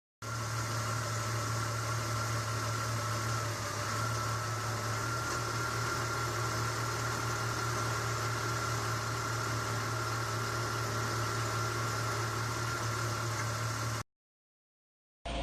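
Car engine idling steadily, a low hum with a faint steady whine over it. It cuts off suddenly near the end.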